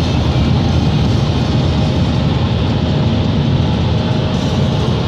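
Car wash dryer blowers running: a loud, steady rush of air that does not change.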